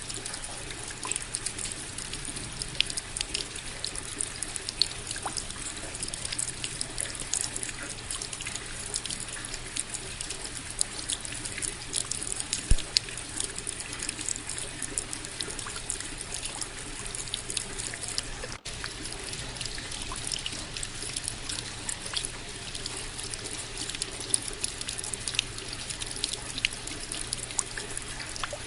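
Steady rain, with many individual drops ticking and splashing over an even hiss of falling water, broken by a momentary dropout about two-thirds of the way through.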